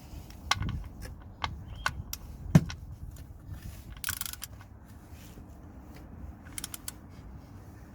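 Socket wrench tightening the oil drain plug: scattered sharp metallic clicks and clinks, the loudest about two and a half seconds in. There is a brief rustle around four seconds in and a quick cluster of clicks near the end.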